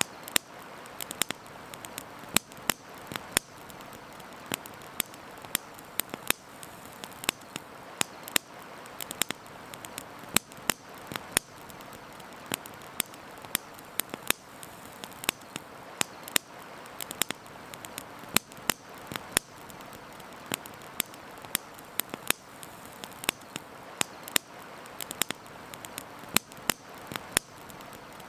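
Wood campfire crackling, with frequent sharp, irregular pops over a steady rushing hiss of river water.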